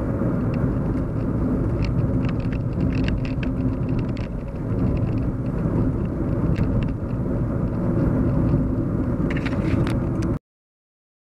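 Steady low hum and road rumble inside a moving car's cabin, with scattered faint ticks. The sound cuts off suddenly near the end.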